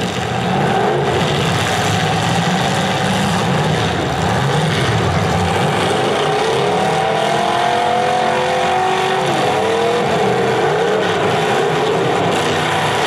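Several demolition derby cars' engines revving hard at once, their pitch rising and falling as they accelerate, over a steady din.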